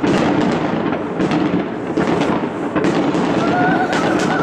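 Aerial firework shells bursting in the sky: a dense, continuous run of bangs and crackling.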